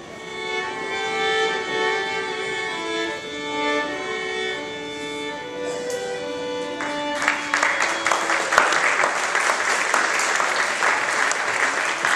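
A violin plays a melody of held notes that ends about seven seconds in; an audience then claps.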